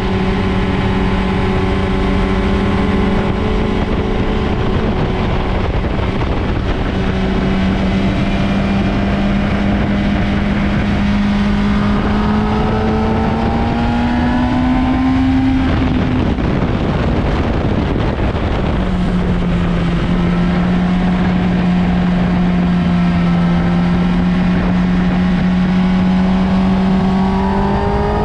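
Motorcycle engine running at speed on a race track over a heavy rush of wind noise. The engine note holds steady, climbs about halfway through, then breaks off briefly before settling again, and starts climbing once more near the end.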